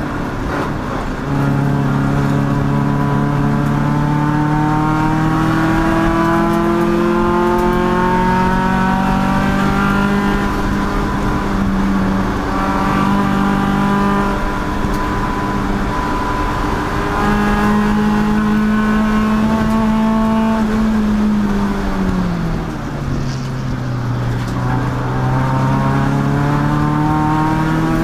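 Race car engine running hard under throttle, its note climbing slowly for most of the stretch. Near the end it drops sharply as the driver lifts off, then climbs again.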